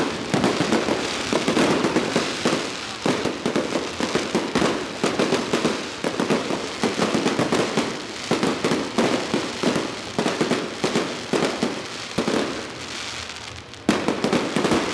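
A dense barrage of firecrackers and fireworks going off in rapid, uneven crackling pops. It thins a little near the end, with one sharp crack.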